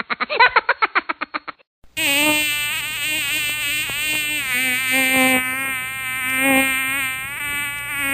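A rapid pulsing sound, about ten pulses a second, stops about one and a half seconds in; after a short gap a long, loud buzzing tone starts that wavers up and down in pitch.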